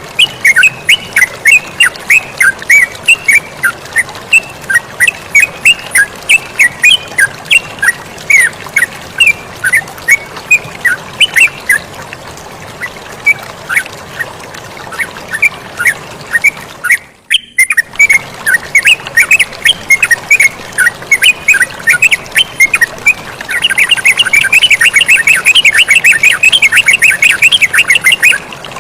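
Yellow-vented bulbul (terucukan) song: a long series of short, quick chirps over a steady background of flowing water. There is a brief break about 17 seconds in, and near the end the chirps come in a dense, rapid run.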